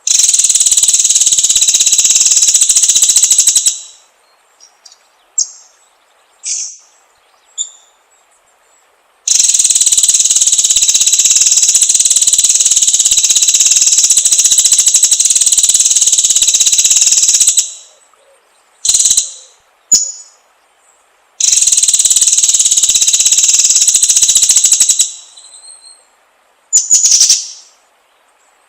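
White-rumped shama (murai batu) song: three long, fast buzzing trills of about four, eight and four seconds, with short sharp high notes in the pauses between them.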